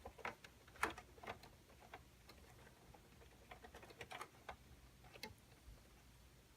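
Faint, scattered light clicks and taps of a USB 2.0 cable and its plastic connector being handled and fitted inside a PC case, about a dozen in all, irregularly spaced.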